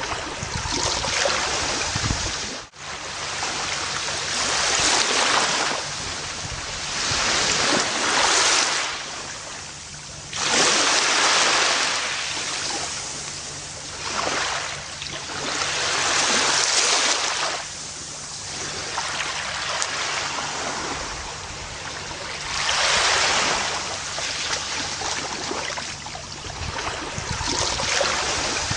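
Gentle ocean waves washing up a beach, each wash swelling and fading every few seconds. There is a brief break in the sound about three seconds in.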